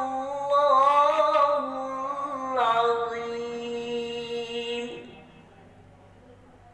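A single voice chanting a long, melismatic phrase of Quran recitation (tilawah) in voice practice. It holds a wavering note, steps down to a lower held note partway through, and ends about five seconds in.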